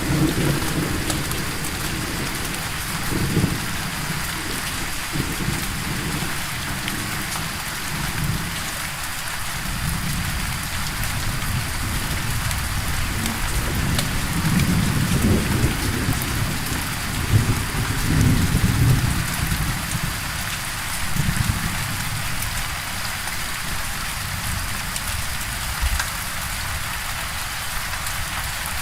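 Steady rain, with thunder rolling low and irregularly in the background, strongest just at the start and again around the middle.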